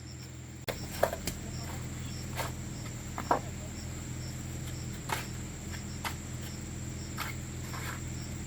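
Scattered short knocks and clinks, roughly one a second, over a steady low hum, with insect-like chirping and a thin high whine.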